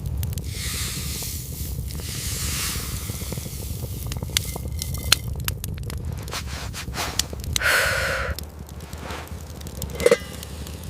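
Campfire crackling with scattered sharp pops over a steady low rumble. Two longer scraping sounds stand out, the louder one about eight seconds in, and there is a short knock near the end.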